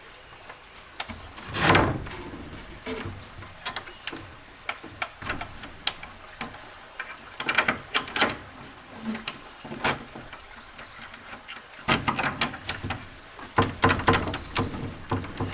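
Irregular knocks, taps and scrapes, with a few louder clattering stretches about two seconds in and again near the end.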